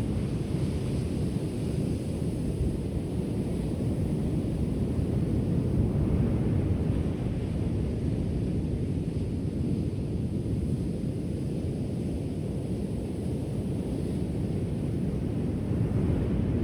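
Ocean surf: a steady low rumble of waves breaking and rolling onto the shore, swelling slightly about six seconds in and again near the end.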